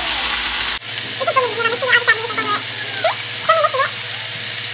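Chopped vegetables sizzling steadily in a hot electric skillet. From about a second in, a young child's high-pitched voice chatters over it.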